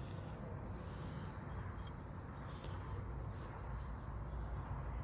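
Crickets chirping faintly over a low steady background rumble, with a few faint clicks.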